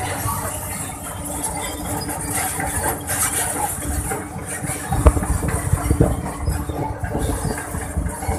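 Sany SR150C rotary drilling rig travelling on its crawler tracks: the diesel engine runs steadily under clanking and knocking from the steel tracks, heaviest about five seconds in.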